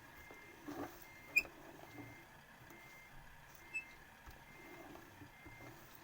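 A vehicle's reversing warning beeper sounding a short high tone about once a second. A few sharp chirps and a soft thump are also heard.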